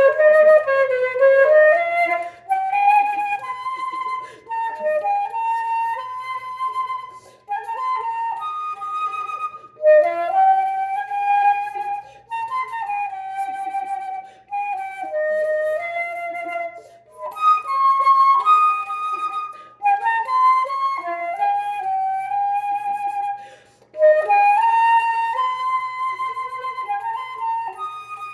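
Solo flute playing a slow, lyrical melody, its notes slurred together in phrases of two to three seconds with short breaks between them.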